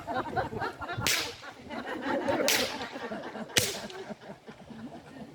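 Three sharp, whip-like cracks, the first about a second in and then roughly every second and a half, over faint murmuring from the gathered guests.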